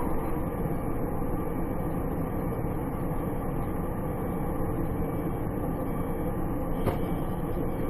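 Steady road and engine noise of a car being driven, with no change in pitch or level.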